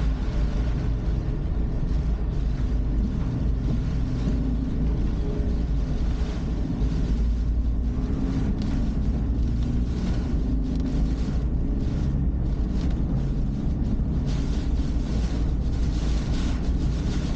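A car's engine and tyre noise heard inside the cabin through a dashcam's microphone, a steady low rumble with a hiss that grows louder about fourteen seconds in.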